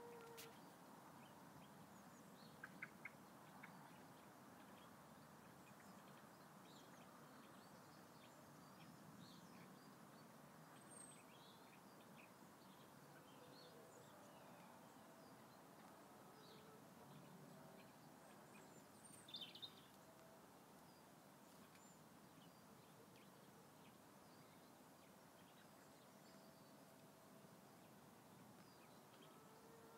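Near silence: a faint outdoor background hiss with scattered short bird chirps, a couple of them slightly louder just before the middle.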